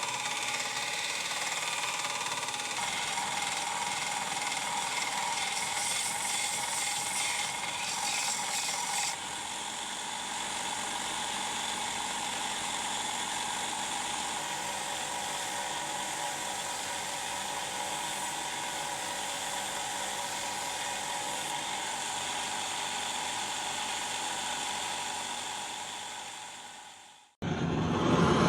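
Electric abrasive power tool running steadily against steel scissors. The sound shifts about nine seconds in and dies away near the end.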